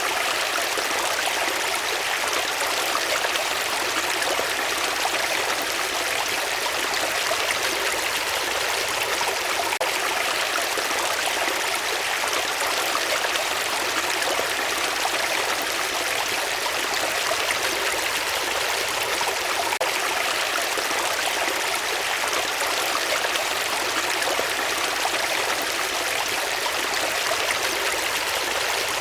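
Running water of a stream, a steady, unbroken rush with no changes.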